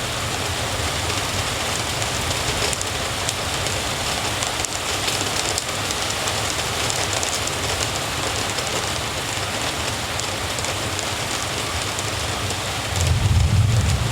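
Steady rain falling over a city, an even hiss, with a low rumble underneath that swells louder about a second before the end.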